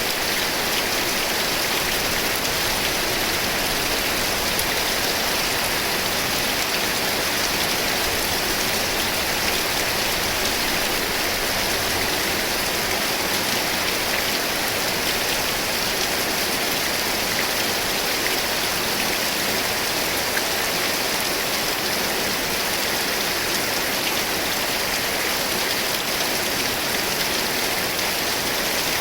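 Steady rain falling: an even, dense hiss that keeps up without let-up.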